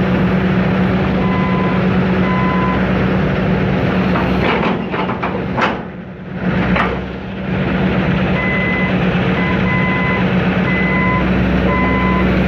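John Deere 160C LC excavator's diesel engine running steadily while its travel alarm beeps repeatedly, a sign that the machine is tracking. The beeping stops for a while in the middle, where there is a short clatter, and starts again for the last few seconds.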